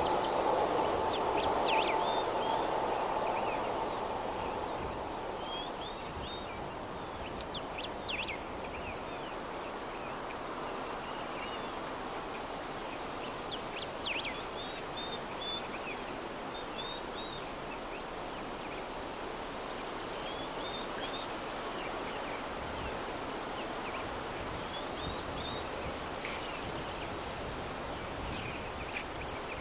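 Soft breeze blowing steadily, with small birds chirping in short, repeated calls throughout. A louder low hum fades away over the first few seconds.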